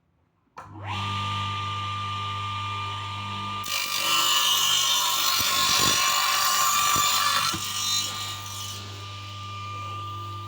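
Electric power saw spinning up with a rising whine about half a second in and running free. It then cuts through plywood for about four seconds with a louder, rougher noise, and goes back to running free.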